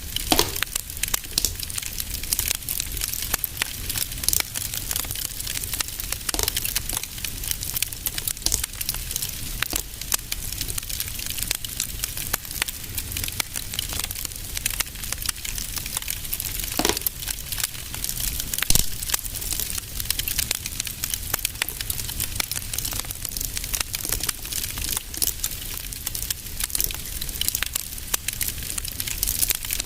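Wood fire crackling steadily, with a few louder pops from the burning logs, over a low rumble.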